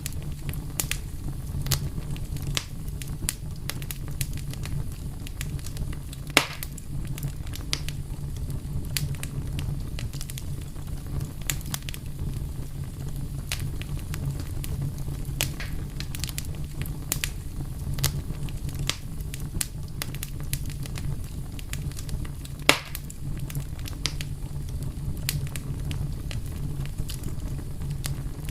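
Fire crackling: irregular sharp pops and snaps over a steady low rumble, with two louder pops, one about six seconds in and one a little past twenty seconds.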